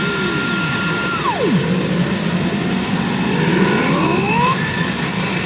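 Pachinko machine electronic sound effects: a held synth tone that drops away after about a second and a half, then a run of rising sweeping tones, over a constant mechanical din.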